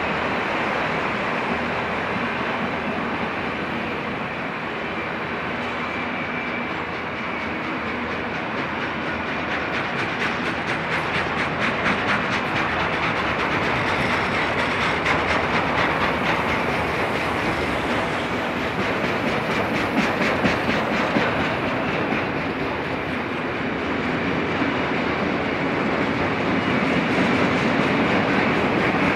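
Autorack freight cars of a long train rolling past: a steady rumble of steel wheels on rail, with rapid clickety-clack over rail joints that grows denser and louder through the middle.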